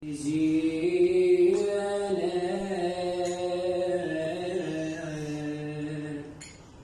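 A man's voice chanting long held, slowly wavering notes without accompaniment, the opening of a Shia Husseini lament recitation. It fades out near the end.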